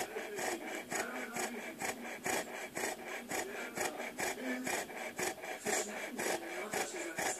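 Dogue de Bordeaux snoring in deep sleep: a quick, regular rasping rhythm of about three to four strokes a second.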